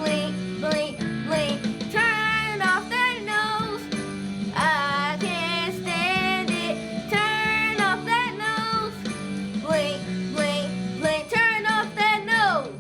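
Students singing a Christmas song with vibrato over a sustained instrumental accompaniment. A sung note slides down just before the end.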